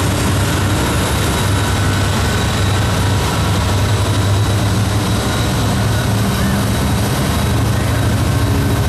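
Union Pacific diesel freight locomotive passing close by with its engine running, followed by loaded covered hopper cars rolling along the rails. A loud, steady rumble.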